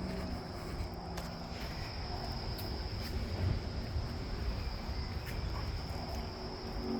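Crickets chirping in a continuous high-pitched trill, with a low rumble of wind or handling on the microphone beneath.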